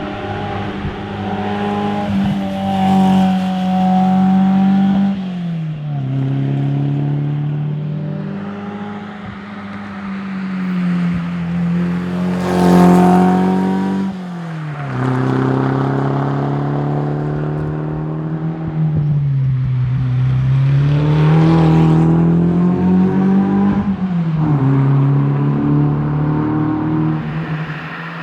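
Renault Alpine A110's engine pulling hard under rally acceleration, its pitch climbing through each gear and dropping sharply at the upshifts, three times, with a dip and recovery in between.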